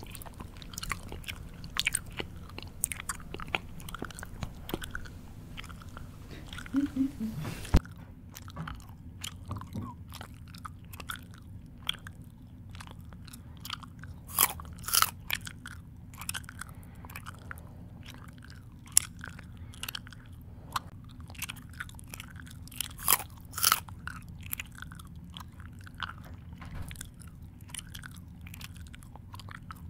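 Close-up mouth chewing of crunchy food, with irregular crisp crunches and wet mouth noises. The background hiss drops abruptly about eight seconds in.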